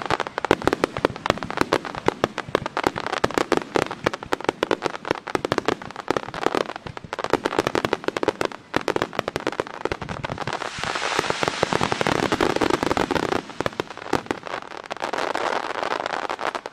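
Fireworks display: a rapid barrage of aerial shells bursting, the bangs coming too fast to count, with dense crackling that builds through the second half. The barrage cuts off suddenly right at the end.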